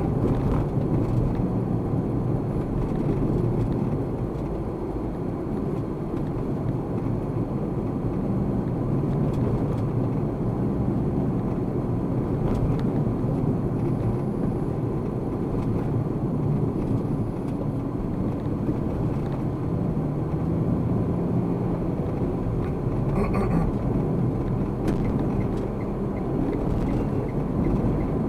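Steady road and engine noise of a car being driven, as picked up by a dashcam.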